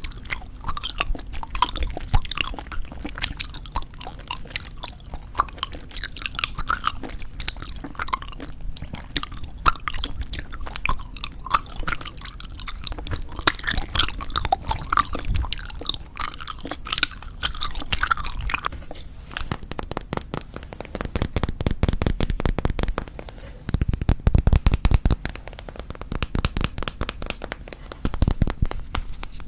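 Close-miked chewing of soft tube bubblegum: wet, sticky mouth clicks and smacks in an irregular stream, growing denser in runs over the last third.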